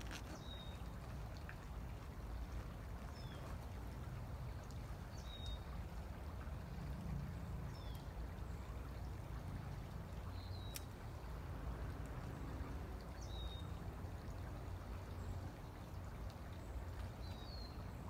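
A small bird calling with short high chirps, one every two to three seconds, over a steady low background rumble.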